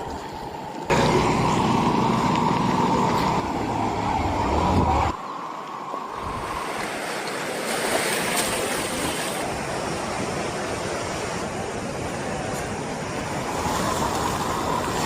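Steady rush of falling water from a waterfall, with a deep rumble under it for the first few seconds. The sound changes abruptly about one second in and again about five seconds in.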